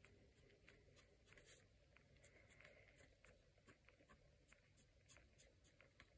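Very faint scratching of a pen nib on a paper card, with scattered soft ticks as lines are drawn.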